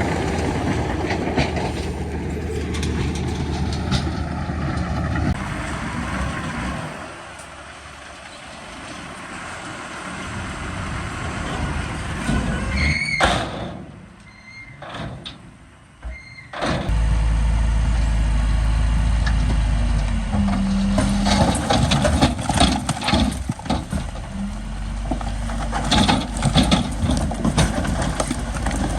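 Heavy diesel earthmoving machinery running: the engines of a bulldozer and dump trucks, a steady low rumble that drops away briefly around the middle and comes back louder. Many sharp metallic clanks and knocks sound over the engine in the last several seconds.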